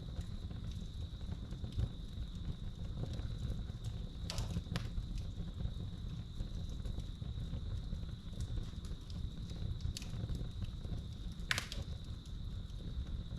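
Wood fire crackling, with sharp pops about four seconds in, at about ten seconds and near eleven and a half seconds, over a low rumble. A steady high chirring of crickets runs underneath throughout.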